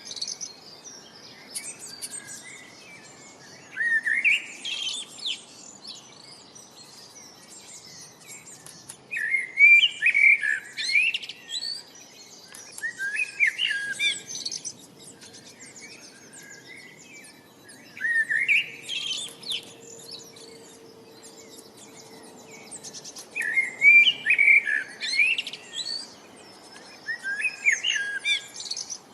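A songbird singing short, quick phrases that sweep up and down in pitch, repeated about every four to five seconds, with fainter chirps in between.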